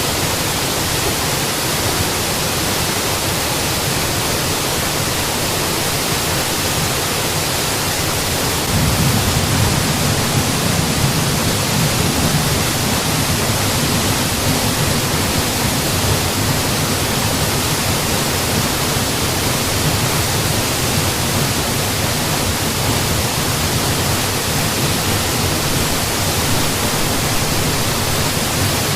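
Mountain waterfall rushing steadily, an even wash of falling water. About nine seconds in, its low rumble becomes slightly fuller and louder.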